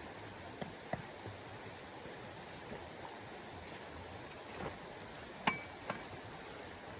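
A few light clicks and one louder clink, about five and a half seconds in, that rings briefly on a single high note, like metal or glass being knocked, over a steady soft hiss.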